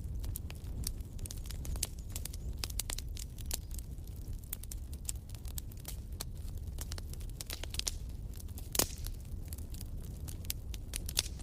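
Wood fire crackling with many small irregular pops over a low, steady rumble, one louder pop about nine seconds in.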